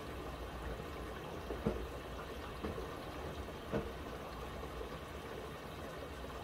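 Miele W1 WCR 890 WPS front-loading washing machine in its wash phase: water sloshing in the turning drum over a low hum, with two soft thuds about two seconds apart.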